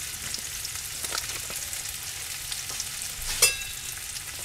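Ribeye steaks and trumpet mushrooms sizzling in a hot skillet: a steady frying hiss with small crackles. One sharp click rings briefly about three and a half seconds in.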